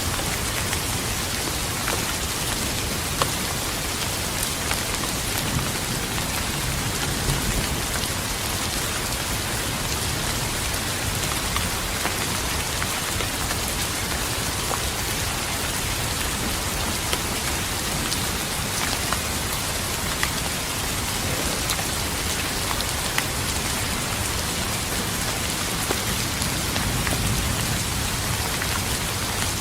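Steady rain falling on a surface, with individual drops ticking sharply, and a low rumble of distant thunder swelling near the end.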